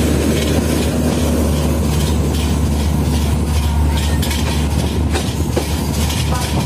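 Passenger coach of a moving Indian Railways express running on the track, heard at the open door: a steady low rumble with the clickety-clack of the wheels over rail joints, the clacks sharper from about four seconds in.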